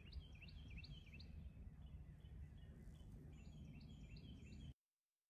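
Faint birds chirping in quick repeated strokes over a low outdoor rumble. The sound cuts off abruptly near the end.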